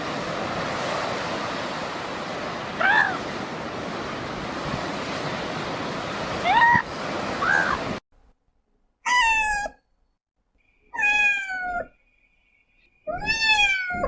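Cat meowing: a few short meows over a steady rushing background noise, which cuts off about eight seconds in, then three loud, clear meows about two seconds apart, each falling in pitch at the end.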